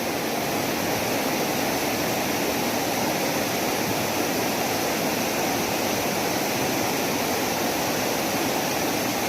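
Mountain river rushing over rocks, a steady, even noise of fast-flowing water.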